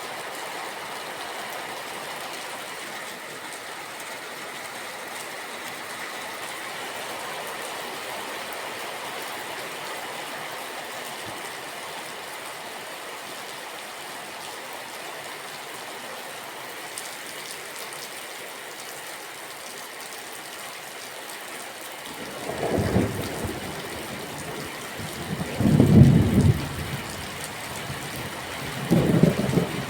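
Steady rain falling, an even hiss. In the last third, three low rolls of thunder rumble in, the middle one the loudest.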